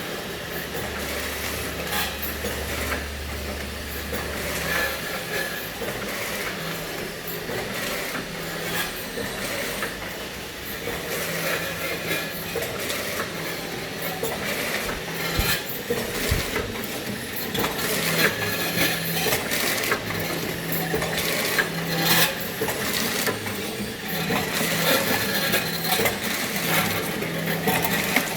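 Sugar machine for 1 kg lots running, with a continuous clattering, rattling and scraping and many small clicks. A low motor hum is heard for the first few seconds, and a lower hum comes and goes after that.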